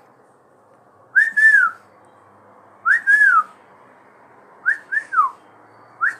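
A pet parrot whistling the same short two-note phrase four times, about every second and a half to two seconds, each phrase ending in a falling glide.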